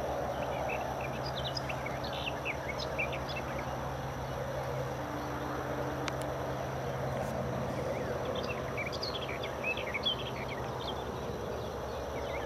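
Small birds chirping, short high notes in two scattered spells a few seconds apart, over a steady low hum and hiss of outdoor ambience.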